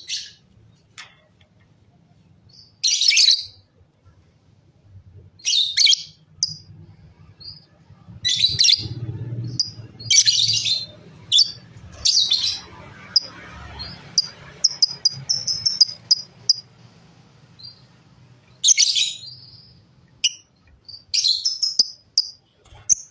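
Lovebirds chirping in short, high-pitched bursts every one to three seconds, with a run of quick, rapid twitters in the middle.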